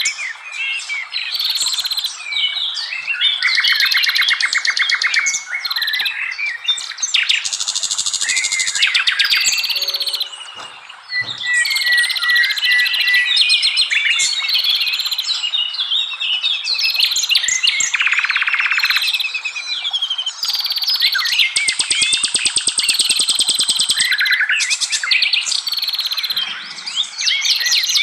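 A dense chorus of several forest songbirds singing over one another without a break: chirps, sweeping whistles and fast rattling trills. Loudness dips briefly around ten seconds in.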